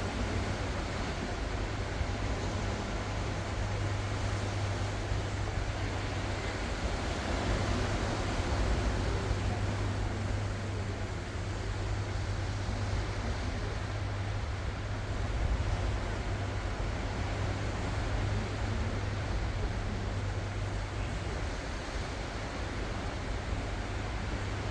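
Ocean surf, waves rolling in and washing ashore in a steady wash with gentle swells in loudness, under a constant low rumble.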